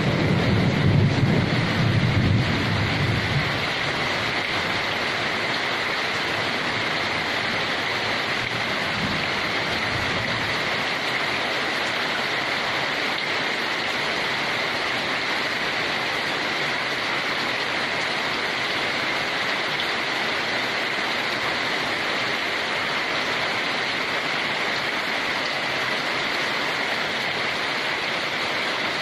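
Steady, even rain. A low rumble under it in the first few seconds dies away.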